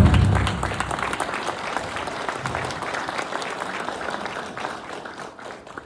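Audience applauding, with many quick claps that die away steadily over several seconds.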